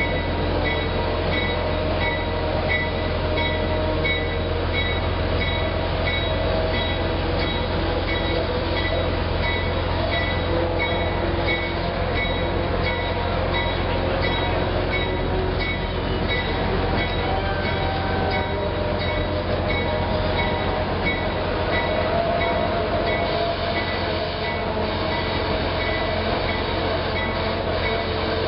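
Train running, heard from on board: a steady low rumble, with a high metallic ringing that repeats at an even pace.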